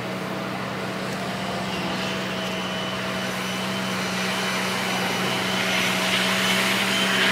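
Heavy diesel engine of earthmoving equipment running steadily with a low drone, growing slowly louder, with a hiss rising in the last second or so.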